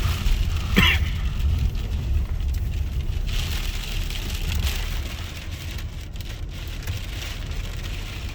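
Gusty storm wind still howling around a car, with a heavy uneven rumble of wind and road noise and a hiss over it. There is one short sharp knock about a second in.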